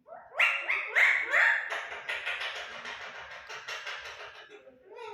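A man's voice making playful vocal sound effects: three quick rising yelps, then a long, rapid rattling trill that fades away.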